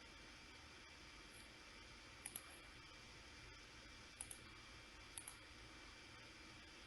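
Computer mouse clicking in quick double clicks, three times, over a faint steady hiss.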